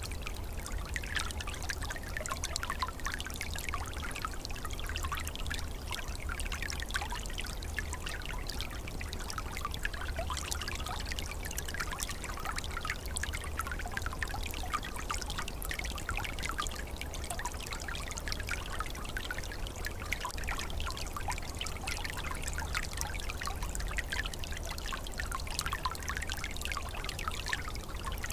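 Small forest stream trickling and burbling steadily over an open winter channel, full of fine splashing flickers, with a low steady rumble beneath.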